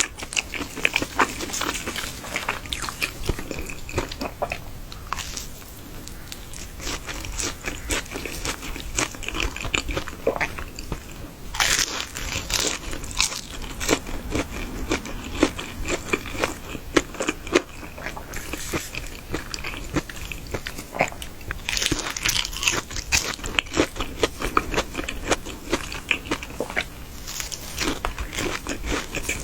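Close-miked biting and chewing of crispy fried chicken, the coating crunching and crackling in quick runs of bites, with louder bursts of crunching a few times.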